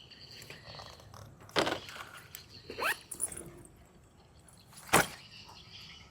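Handling noise from batteries and hobby gear: two sharp clacks, about a second and a half in and again at five seconds, with a short rising squeak between them.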